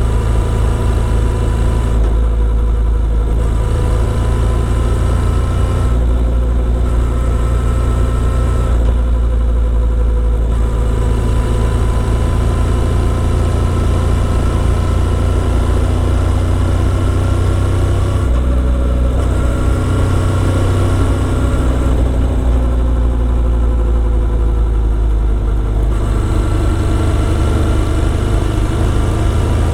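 Motorcycle engine running steadily while riding, its pitch shifting a little up and down every few seconds with the throttle.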